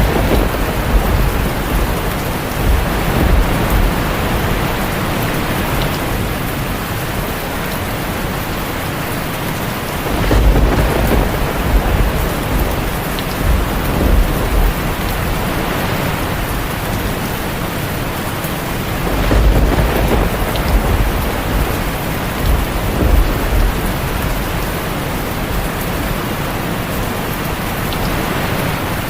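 Heavy rain falling steadily on a tin roof, with rolling thunder. Deep rumbles swell near the start and again about ten and twenty seconds in.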